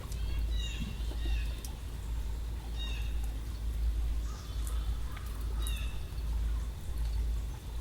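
Short, high, downward-sliding calls, repeated about six times and often in quick pairs, likely from a bird, over a steady low rumble like wind on the microphone.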